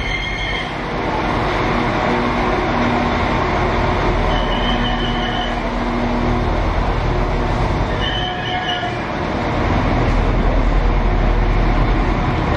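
Class 196 diesel multiple unit running slowly alongside the platform and coming to a stand, its diesel engines giving a steady low rumble. Short high squeals sound twice, around four seconds in and again around eight seconds, as it slows.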